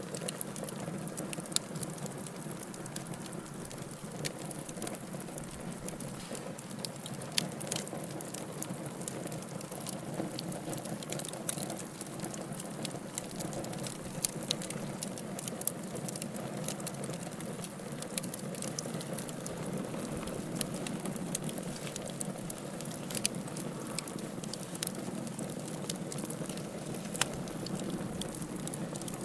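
Wood fire crackling in a fireplace: a steady low rush of burning with frequent irregular sharp pops and snaps.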